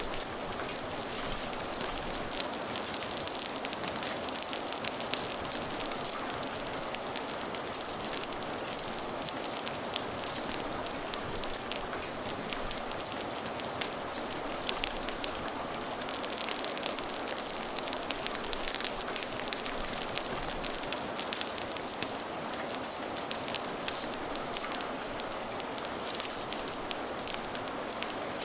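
Steady rain, with a wood fire crackling in many small sharp pops throughout.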